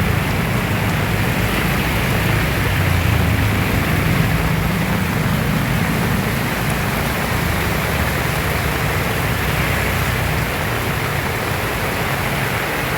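Heavy rain pouring steadily, with strong wind rumbling deep and unevenly on the microphone.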